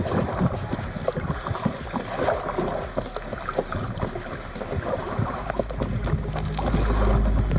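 Kayak paddling: irregular water splashes and light knocks of the paddle. Wind rumbles on the microphone, growing louder near the end.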